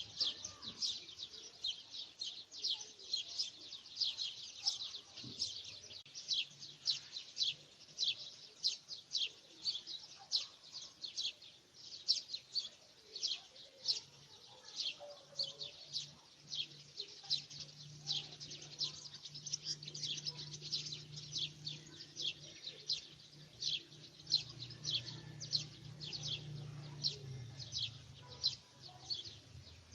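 Birds chirping: short, high chirps repeated at about two a second. A low steady hum joins about halfway through and fades near the end.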